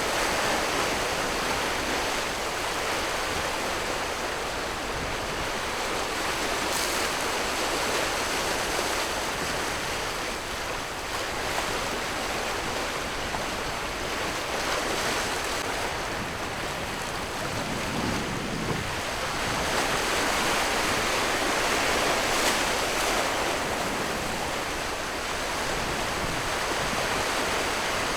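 Sea waves washing in steady surf, swelling a little louder around two-thirds of the way through, with wind on the microphone.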